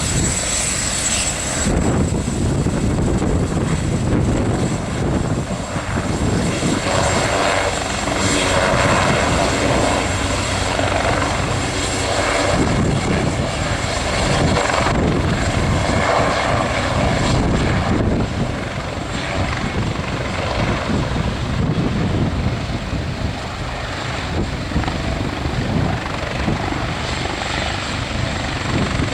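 Helicopter running close by: a steady rotor and engine noise that swells and eases in level, with a high whine at the start that fades about two seconds in.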